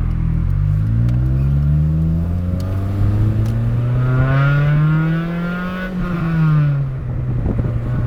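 Honda Civic Si engine accelerating through an exhaust with a large rusted-out hole, loud and raspy. The engine note climbs steadily for about six seconds, then drops as the revs fall.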